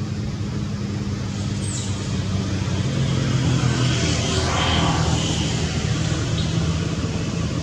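Motor vehicle engine running on a road, with a vehicle passing and road noise swelling about halfway through.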